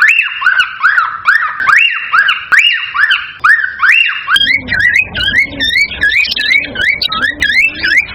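Cockatiels calling: a run of loud rising whistles, about two or three a second. About four seconds in, the calls change to a quicker, higher series with a low rumble behind them.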